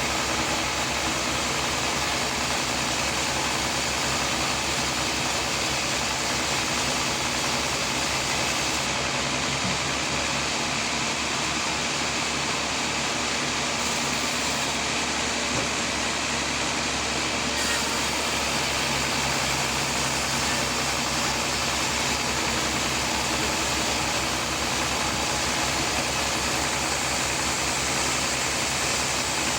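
Sawmill machinery running steadily, a constant engine-driven hum and whir.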